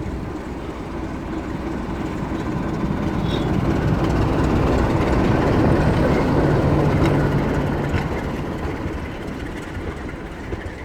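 A train passing on the rails. Its running noise builds to a peak about halfway through and then fades, with a brief low steady hum near the loudest part.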